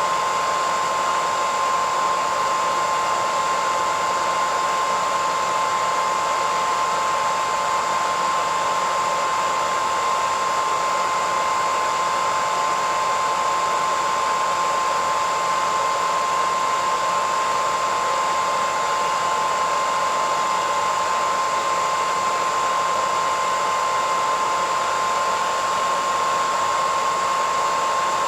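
Hairdryer running continuously: an even rushing hiss of blown air with a steady high whine from its motor, unchanging throughout.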